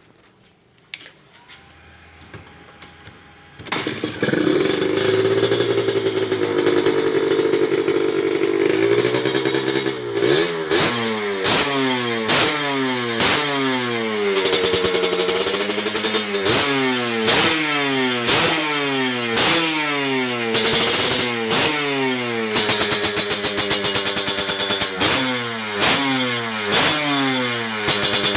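Kawasaki Ninja motorcycle engine fitted with an aftermarket 'udang' (shrimp-shaped) exhaust, starting about three and a half seconds in and running at a raised idle. From about ten seconds in it is revved in quick blips, roughly one a second, each rising and falling back.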